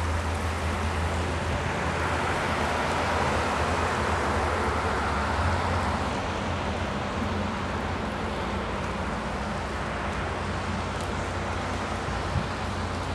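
Steady rain falling, with a hiss that swells and fades again a few seconds in, as a vehicle passes on the wet road.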